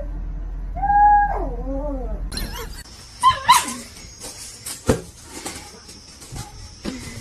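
A pet animal's drawn-out cry, held steady and then sliding down in pitch, about a second in. After a cut come a few short wavering calls and a single sharp knock.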